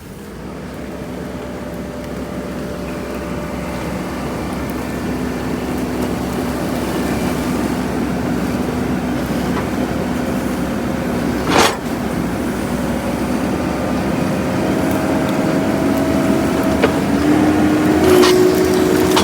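Engine running steadily and growing louder, its pitch rising near the end, with one sharp knock about halfway through.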